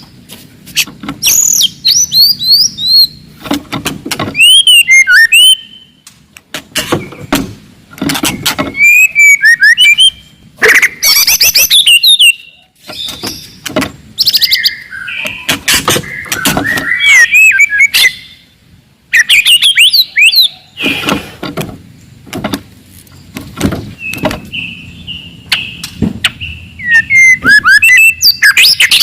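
Wild white-rumped shama singing loudly and without let-up: varied whistled phrases that slide up and down in pitch, mixed with frequent harsh rattling notes, the aggressive song used to provoke rival shamas.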